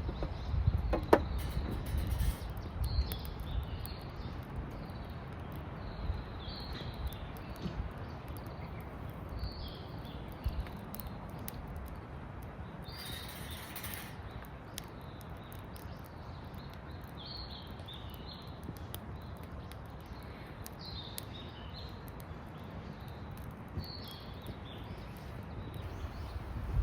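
Small birds chirping in short repeated calls, over a low steady rumble, with a few knocks in the first two seconds.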